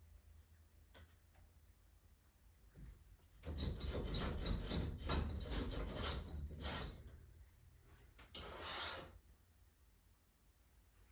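Rough rubbing, rasping strokes for about three and a half seconds, then one more short scrape a second later.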